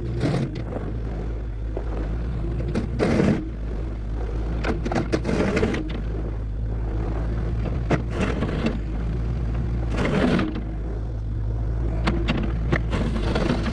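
Compact diesel machine's engine running steadily while it scrapes and spreads road gravel, with loose gravel crunching and scraping in several rough bursts.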